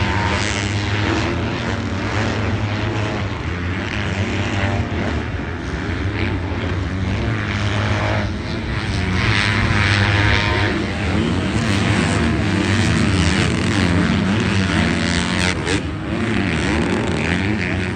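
Several motocross bike engines revving on a race track, their pitch climbing and dropping again and again as the bikes shift and throttle through the sections.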